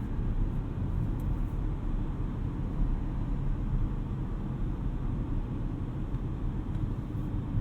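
Inside the cabin of an Audi RS6 Avant with its twin-turbo V8, cruising at a steady road speed: an even low rumble of engine and tyre noise with no rise or fall in revs.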